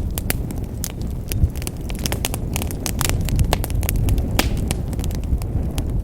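Fire burning in a fireplace: a steady low rumble of flames with frequent irregular crackles and pops, one louder pop about a second and a half in.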